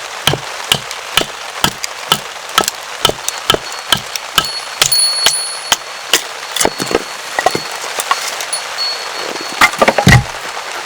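Steady rain with a quick series of sharp wooden-sounding knocks, about two a second at first, then more irregular, with a cluster of heavier knocks near the end.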